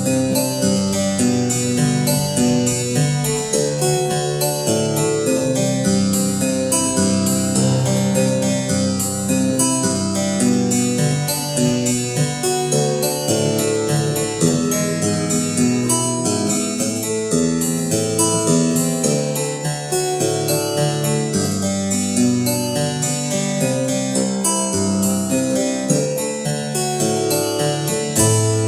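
Harpsichord playing a continuous run of quick plucked notes and chords.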